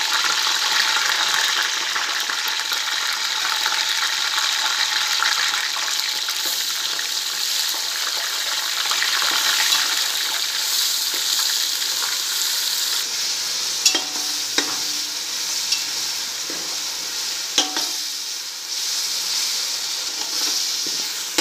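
Ginger-garlic paste and mint leaves sizzling steadily in hot oil in an aluminium pot while being stirred with a metal spatula, with a few sharp clicks of the spatula against the pot in the second half.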